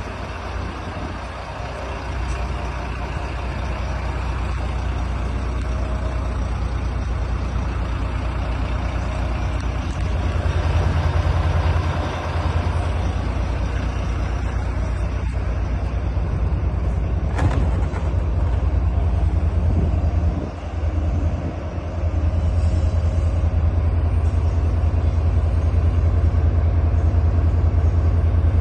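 Volvo FM 300 truck's diesel engine running steadily and getting louder as it goes on. There is a short sharp sound about two-thirds of the way through, and a brief drop in engine level shortly after.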